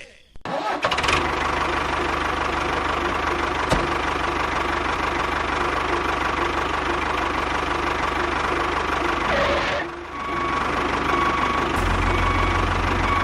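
Small motor running steadily, with a brief drop about ten seconds in before it runs on.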